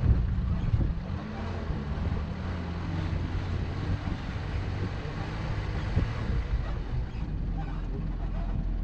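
A vehicle engine running under load, its pitch rising and falling, with a heavy low rumble of wind on the microphone that is loudest in the first second.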